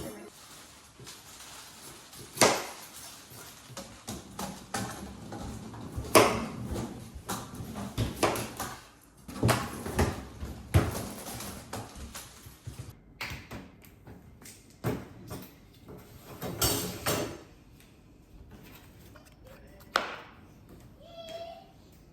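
Things being handled and set down in a small room: a string of irregular knocks and clunks, several of them sharp, with rustling between.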